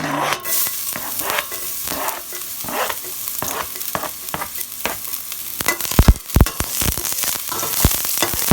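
Chopped garlic sizzling in hot oil in a pot, stirred, with short sharp knocks throughout; the loudest few come about six seconds in.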